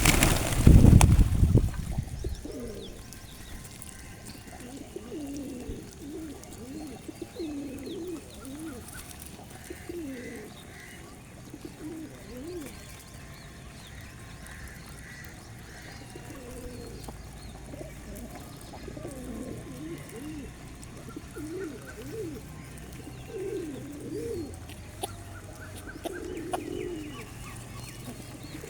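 Pigeons cooing over and over, low rolling coos, with faint chirps from smaller birds. A loud rushing burst of noise in the first two seconds.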